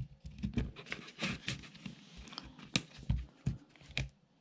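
The plastic back case of a Sharp Memo Master personal organiser being prised apart by hand: a run of irregular small clicks and knocks, with a stretch of scraping plastic about a second in.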